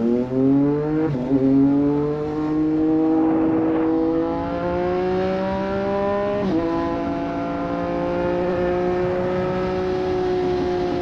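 Triumph Street Triple 765 RS inline three-cylinder engine through a Racefit Growler full exhaust system, pulling up through the revs under acceleration. The pitch drops at an upshift about a second in and at another past the middle, then holds fairly steady at cruising speed.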